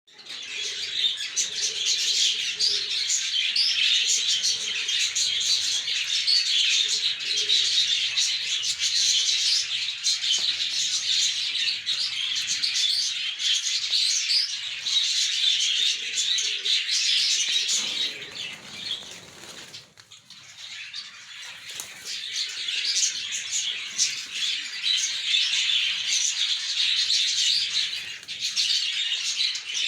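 Birds in a loft: a dense, constant high chirping from many birds, with the low coos of fantail pigeons now and then underneath. The chirping drops away briefly about two-thirds of the way through, then returns.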